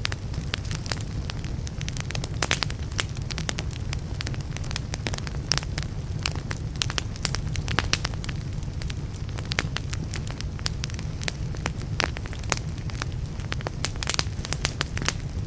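Wood fire burning in a fireplace, crackling with frequent sharp, irregular snaps over a steady low rumble.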